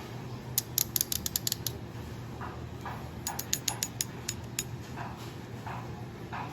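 Packaging being handled and opened by hand: two quick runs of sharp clicks and crackles, the first about half a second in and the second around three seconds in, with softer rustling between and after them.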